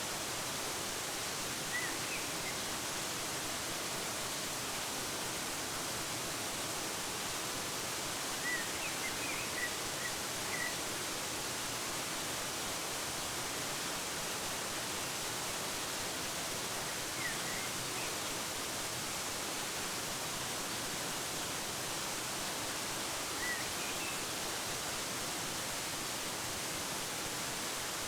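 Waterfall rushing steadily, with a few short bird chirps at intervals: a brief call about two seconds in, a quick run of chirps about nine to ten seconds in, and single chirps later on.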